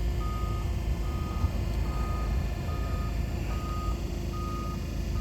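A vehicle's reversing alarm beeping steadily, about one short beep a second, over the low rumble of a running engine.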